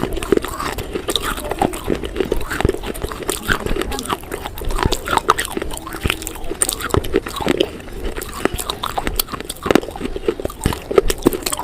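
Close-up crunching and chewing of crunchy food: a dense, irregular run of crisp bites and crunches.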